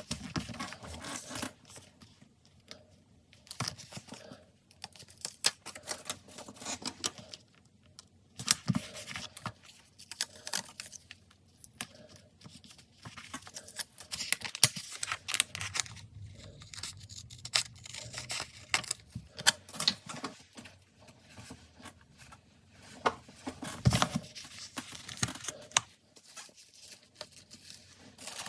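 Stickers peeled off their backing sheets and handled on paper, with short peeling sounds, paper rustling and light taps coming in clusters separated by brief pauses.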